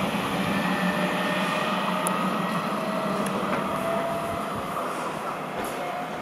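E464 electric locomotive and its regional train coaches running along the track, a steady rumble with a few faint whines above it. The sound fades gradually as the train moves away.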